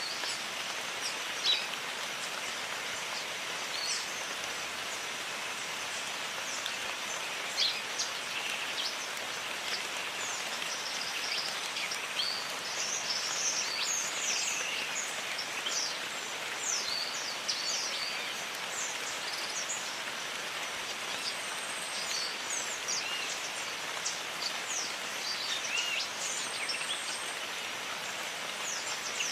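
Steady rain falling, with many short, high bird chirps scattered over it, busiest in the middle stretch, and a couple of louder single drops.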